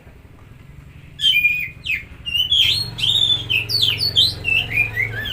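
Oriental magpie-robin (kacer) singing: after about a second of quiet, a string of loud, clear whistled phrases, ending in a run of notes that step down in pitch. A low steady hum starts underneath about halfway through.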